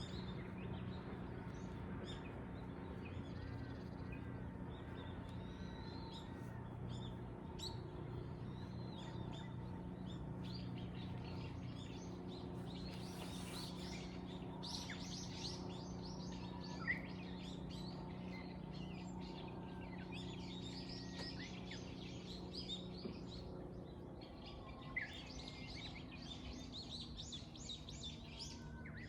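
Several small birds chirping and twittering in short repeated calls and trills, thickest in the second half, over a steady low background hum. There are two brief sharp ticks in the middle.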